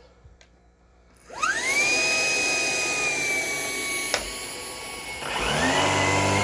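Shark PowerDetect vacuum motor switched on about a second in, its whine rising quickly and settling into a steady high tone. There is a sharp click at about four seconds, then about five seconds in the vacuum ramps up again with a deeper hum added and runs louder.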